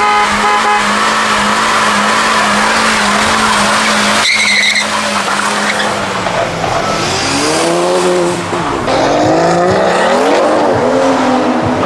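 A modified car's engine held at high revs while its tyres spin and squeal on the tarmac, with a brief sharp squeal about four seconds in. In the second half the revs rise and fall repeatedly as the driver works the throttle.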